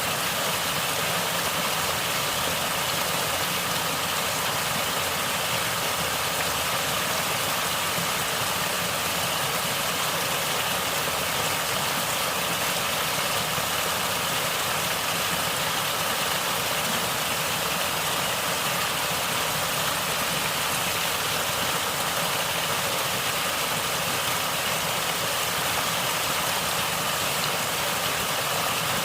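Natural stream water gurgling and rushing in a steady, unbroken wash of sound.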